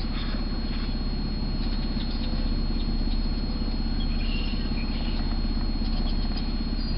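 Car engine idling steadily: an even low hum with a fast regular pulse and a thin high whine above it.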